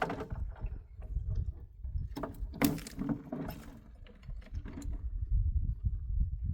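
Scattered clinks and knocks of objects being handled over a continuous low rumble, with a louder clatter about two and a half seconds in.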